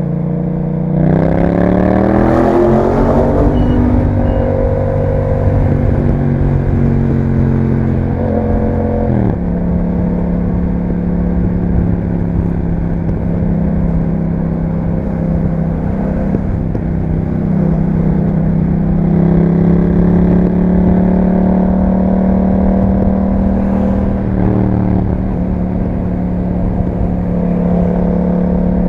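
2021 Yamaha MT-07's parallel-twin engine through an Akrapovic exhaust, under way: it revs up about a second in, falls sharply in pitch around nine seconds in, then holds a steady cruising note that rises a little past twenty seconds.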